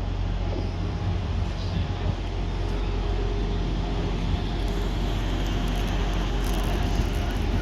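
Diesel multiple unit train's underfloor diesel engine running with a steady low drone, slowly growing a little louder.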